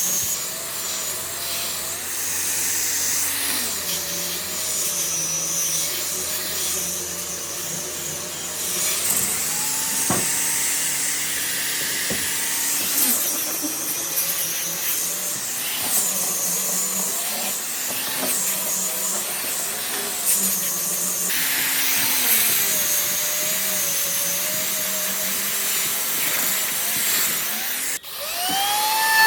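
Electric power tool running on wood: a motor hum whose pitch keeps wavering, with a steady high hiss. Near the end it stops briefly, then a motor spins up again with a rising whine.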